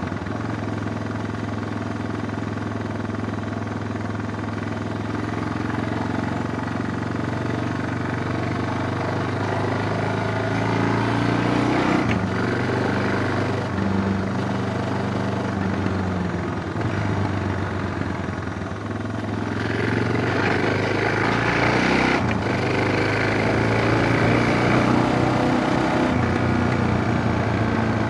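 Suzuki DR650 single-cylinder engine running, its note shifting a few times. From about twenty seconds in it gets louder, with more hiss over it.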